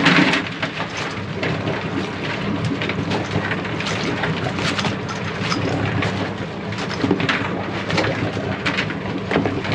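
Crab boat engine running steadily under a constant wash of splashing water, with scattered short knocks and clatters throughout.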